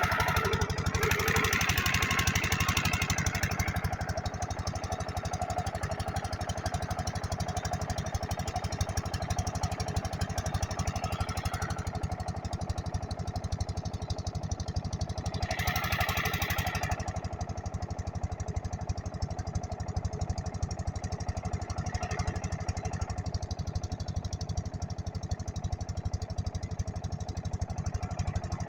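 Kranti stationary diesel engine driving a large water pump, running steadily with a fast, even beat. Two short louder stretches of hissing noise sit on top of it, near the start and about halfway through.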